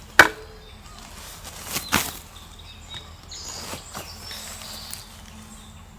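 A sharp knock just after the start, then a second, weaker one about two seconds later, with faint bird chirps in the background.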